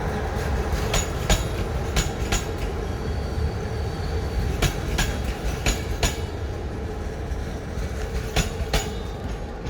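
Arriving passenger train rolling slowly over rail joints: its wheels click in quick pairs every second or two over a steady low rumble, growing a little quieter toward the end.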